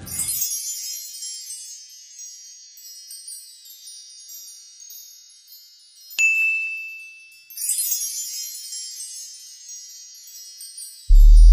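Chimes ringing: a shimmer of many high tones that dies away, one clear ding just after six seconds, then a second shimmer about eight seconds in. A loud, deep sound breaks in right at the end.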